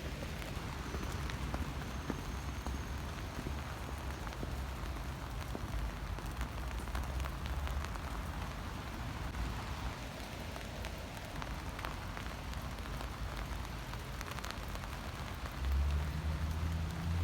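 Steady rain with many small drop ticks. A low rumble runs underneath and swells near the end.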